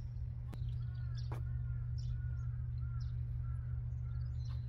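A bird calling in a run of short rising-and-falling notes, over a steady low hum and a few sharp clicks.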